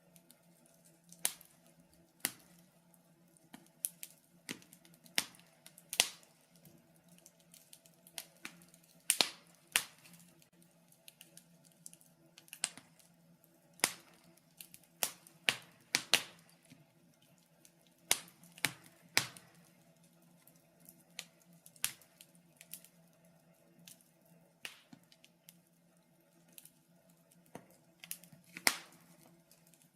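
Wood fire burning in a fireplace, with irregular sharp crackles and pops, about one or two a second and uneven in loudness, over a faint steady low hum.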